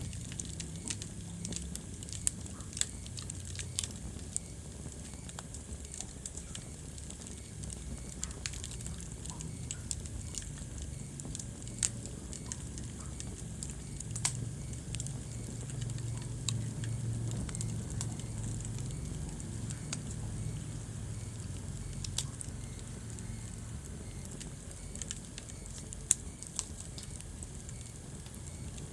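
Wood fire burning in a fireplace: a steady low rumble and hiss of the flames with frequent sharp crackles of burning wood and a few louder pops.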